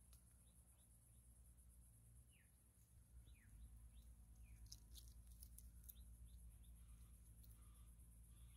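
Near silence with faint, short, falling bird chirps scattered through, a few faint clicks around the middle, and a low steady hum underneath.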